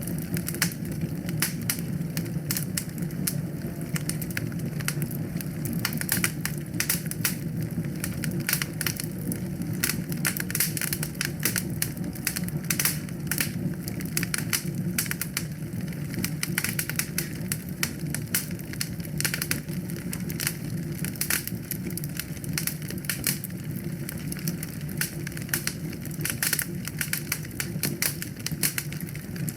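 Wood fire burning steadily: dense, irregular crackles and pops over a low, even rumble of flame.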